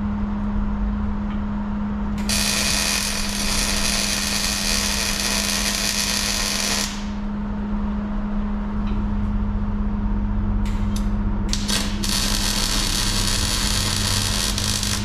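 Wire-feed (MIG) welding on a steel plow frame: a crackling, hissing arc for about four and a half seconds, two brief tack strikes, then another run of about three seconds. A steady low hum continues underneath.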